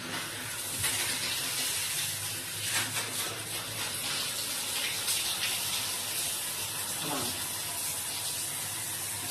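Water running steadily from a tap or the hot-water line, starting suddenly and flowing without a break.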